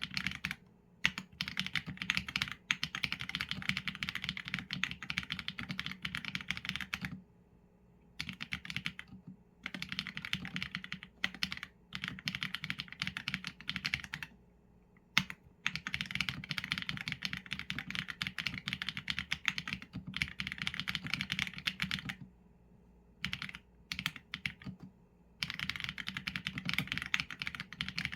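Mechanical keyboard with Leobog Graywood v4 linear switches and PBT keycaps being typed on, a fast stream of keystrokes in runs of several seconds with brief pauses between them.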